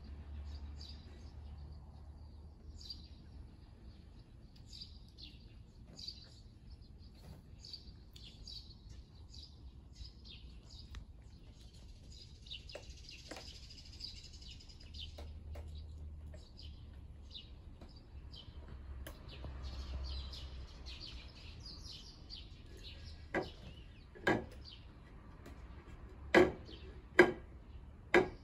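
Small birds chirping in short, repeated high calls in the background. About five sharp knocks come in the last few seconds and are the loudest sounds.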